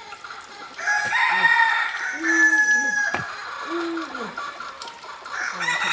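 Rooster crowing, one long crow starting about a second in, with more fowl calls near the end.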